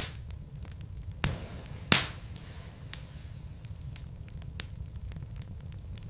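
Wood burning in a fireplace, crackling with scattered sharp pops, the loudest two coming just over a second and about two seconds in, over a low steady rumble.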